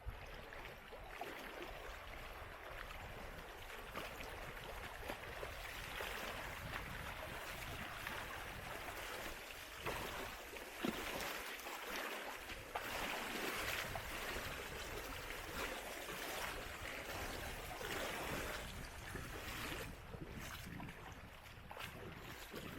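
River water rushing, a steady hiss that grows a little louder in the middle.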